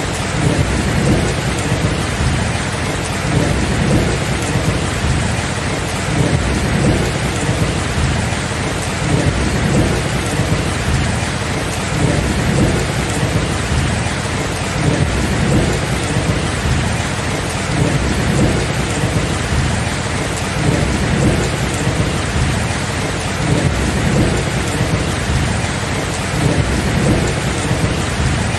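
Steady rain with low thunder rumbling continuously underneath, swelling and easing in waves.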